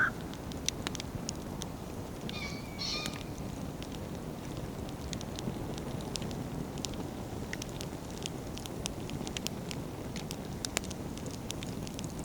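Wood campfire burning with a steady low rush, the logs crackling and popping throughout. About two seconds in, a short high-pitched cry lasting under a second rises above the fire.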